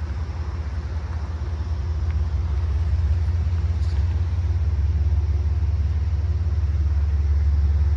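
Low, steady rumble of a large engine, growing louder about two seconds in.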